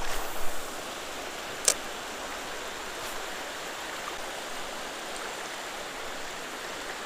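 Steady rush of flowing river water, with one sharp click about two seconds in.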